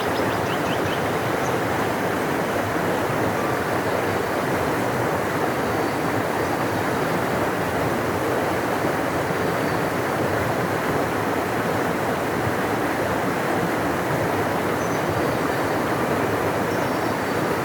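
Large river flowing: a steady, deep rush of water that does not change.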